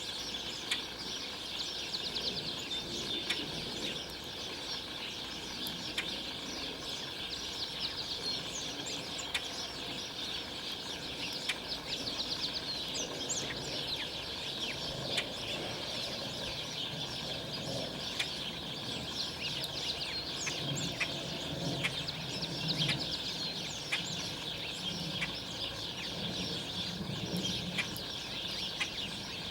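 Many small songbirds chirping and chattering at once, a dense, continuous mix of short high notes and trills.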